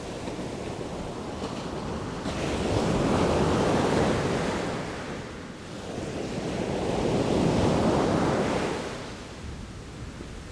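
Sea waves surging and washing in, two swells of surf rising and falling a few seconds apart.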